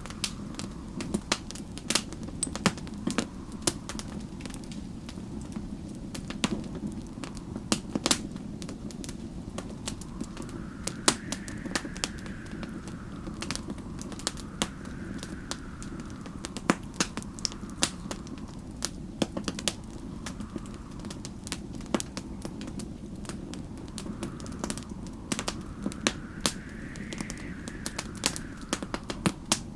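Wood fire crackling, with frequent irregular sharp pops over a steady low rumble, while snowstorm wind howls in slow gusts that rise and fall in pitch every few seconds.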